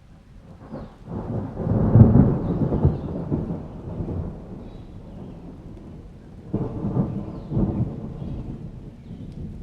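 Thunder rolling over steady rain: one long rumble builds and peaks about two seconds in, then dies away, and a second, weaker roll comes near the end.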